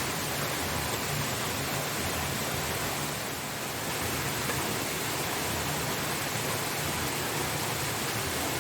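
Waterfall running: a steady, even rush of falling water, dipping slightly about three and a half seconds in.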